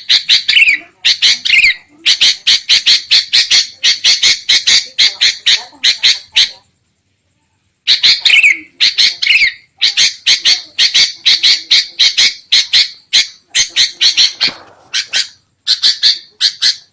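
Sooty-headed bulbuls giving rapid, agitated scolding calls, about four or five sharp notes a second mixed with a few short slurred whistles. This is the noisy alarm chatter played as a lure to draw wild bulbuls in. The calls cut out completely for about a second and a half in the middle, then start again.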